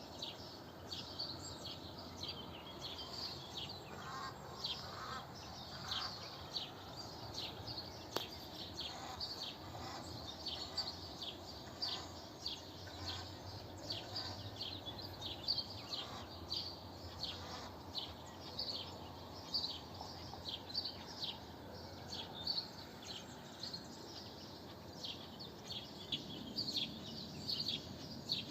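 Small birds chirping and singing in a dawn chorus, many short quick falling chirps one after another, over a steady low background hum.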